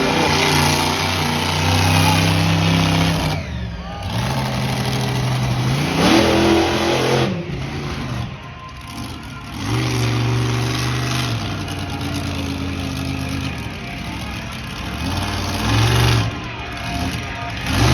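Monster truck engine revving hard, its pitch climbing and falling as the throttle is worked. There are brief lifts off the throttle about a fifth of the way in, around halfway, and near the end.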